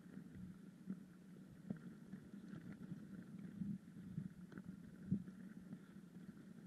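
Mountain bike being ridden: a faint steady low rumble of tyres rolling, with scattered irregular knocks and rattles from the bike.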